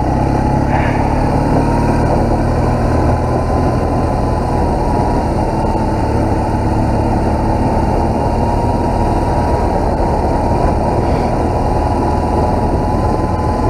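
BMW R1200GS adventure motorcycle's boxer-twin engine running steadily while riding, heard muffled through a helmet-chin camera.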